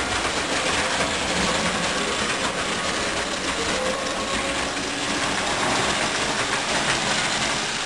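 O27 toy electric train running steadily around its track, with a continuous rumble and clatter of wheels on the rails.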